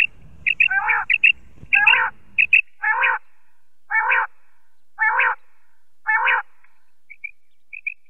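Bird calls repeating at an even pace, about one chirping call a second with short high double chirps between: the recorded call of a poacher's electronic bird caller, used at night to lure migrating birds. A faint low background hum stops abruptly after about two and a half seconds.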